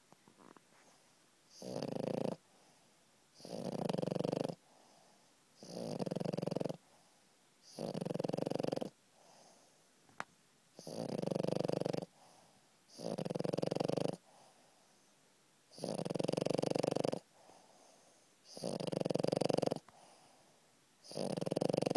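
French bulldog snoring loudly in her sleep: nine snores, each about a second long, coming every two to three seconds.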